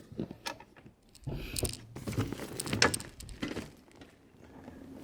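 Camping gear being handled: a few scattered clicks, then a couple of seconds of rattling, knocking and rustling in the middle.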